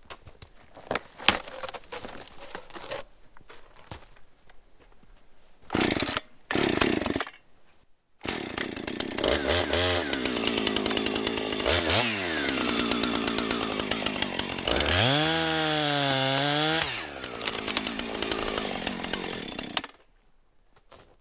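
Husqvarna 455 Rancher chainsaw fired in two short bursts, then running at high revs for about twelve seconds while cutting a tree. Its pitch drops and recovers twice as the chain bogs in the wood, and it cuts off suddenly near the end. Rustling and small clicks of handling come before it.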